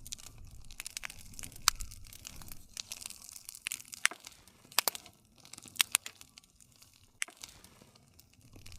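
Campfire crackling: irregular sharp pops and snaps of burning wood over a soft, steady hiss and low rumble of the flames.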